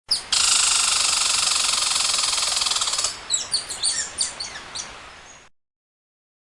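Bird sounds: a loud rapid trill for about three seconds, then a run of quick short chirps, cutting off abruptly about five and a half seconds in.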